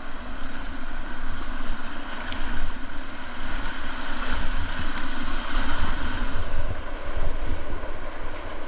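Whitewater of a river running high, rushing and hissing steadily around a kayak. The hiss swells for a few seconds and eases about two-thirds of the way through, over a low buffeting rumble on the microphone.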